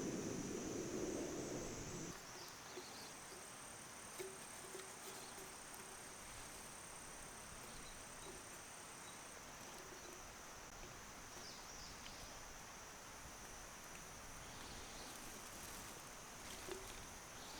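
Faint, steady high-pitched chirring of insects such as crickets, with a second, higher insect tone through the first half. A low rumble stops about two seconds in, and there are a couple of faint ticks.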